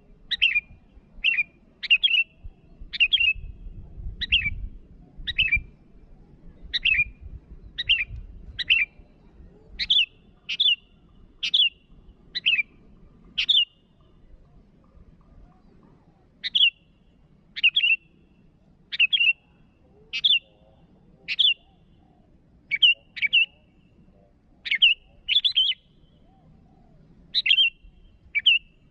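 Sooty-headed bulbul (kutilang) calling over and over in short, sharp notes, one or two a second, with a pause of a few seconds about halfway through.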